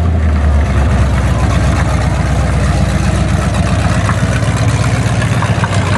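1956 Chevrolet Nomad's engine running at low, steady revs with a deep, loud note as the car rolls away from its burnout.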